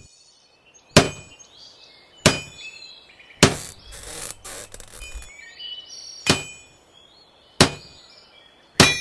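An axe chopping into a log: six hard blows about a second and a half apart, with a longer pause in the middle. Birds chirp faintly behind the blows.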